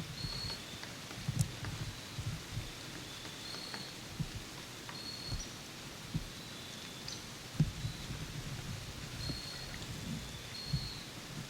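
Quiet woodland ambience around a tree stand: a steady hiss with soft low thumps and a few sharp ticks, and a short high note repeating every second or two.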